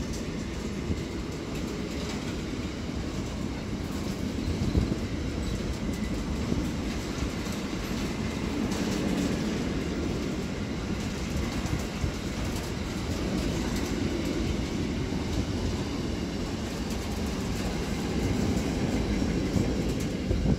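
Freight train of double-deck car-carrier wagons passing through a station: a steady rumble of wheels running on the rails, with wagon clatter over the track.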